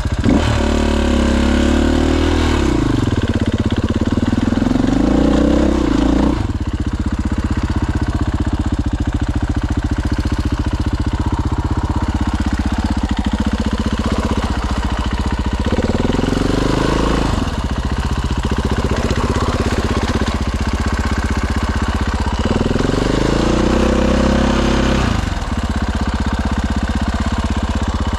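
Dirt bike engine idling, revved up and back down four times: near the start, at about five seconds, at about sixteen seconds and at about twenty-three seconds.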